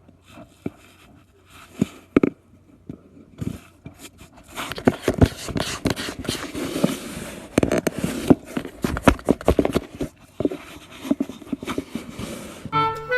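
Scraping and rustling with many sharp clicks and knocks, busiest in the middle of the stretch.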